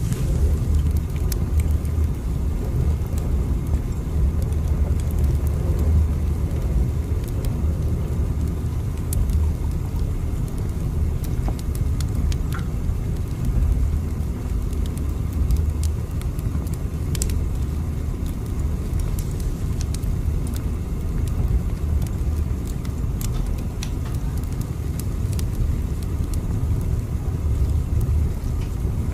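Steady low rumble of a moving train, heard as from inside the carriage, with scattered faint clicks and rattles over it.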